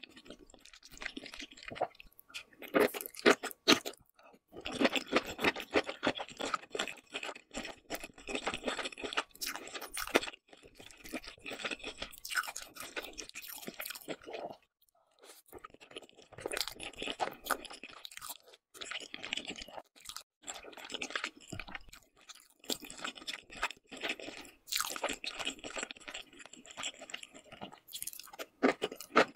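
Close-miked mouth sounds of eating saucy noodles and sausages: wet chewing and biting in long bursts, with a couple of short pauses.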